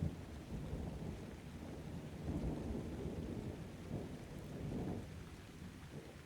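Thunder rumbling in several rolling swells over steady rain. The rumble dies away near the end.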